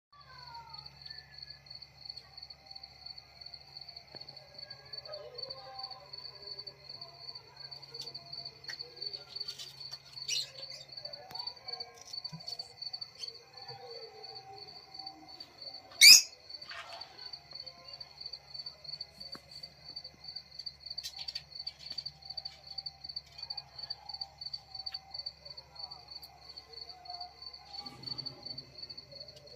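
Lovebirds with one loud, sharp call about 16 seconds in and a shorter chirp around 10 seconds, over a steady high-pitched pulsing trill that runs throughout.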